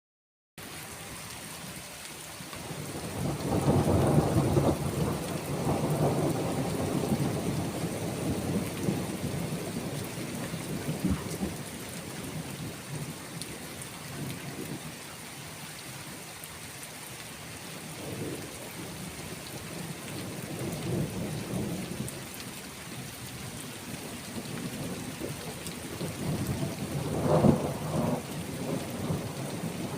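Steady rain with rolling thunder: a long rumble swells about three seconds in and fades slowly, fainter rumbles follow, and a louder peal of thunder comes near the end.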